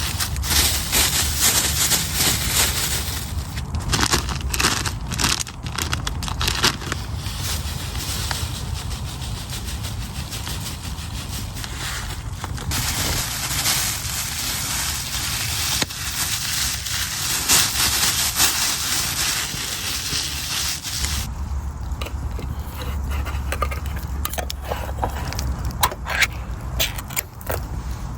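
Campfire cooking: a steady hiss full of crackles and small clicks, over a low rumble. About 21 seconds in the hiss stops abruptly, leaving scattered sharp crackles and the rumble.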